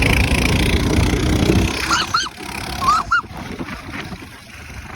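Minibike engine running loudly, then dropping away about two seconds in. Two pairs of short rise-and-fall honking calls follow, near two and three seconds in.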